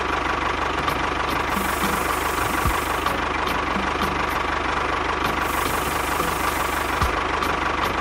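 Steady engine-like running of a toy bulldozer-tractor pushing sand, with a constant whine and a faint regular knock.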